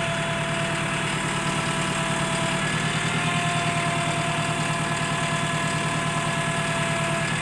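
Crane truck's engine running steadily, driving the hydraulic crane as its boom is folded in, with a steady whine that stops near the end.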